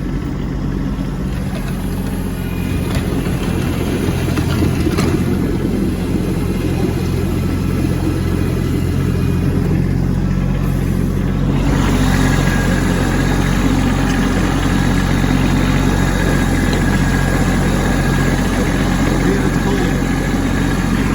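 Kubota B2601 compact tractor's three-cylinder diesel engine running steadily. About halfway through its sound grows a little fuller and brighter.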